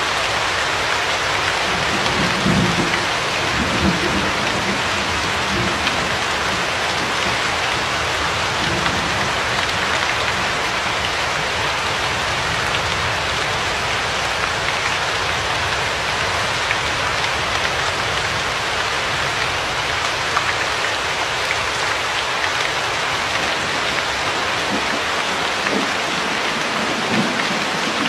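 Steady, dense rainfall hissing evenly, with faint low rumbles of distant thunder about two to four seconds in.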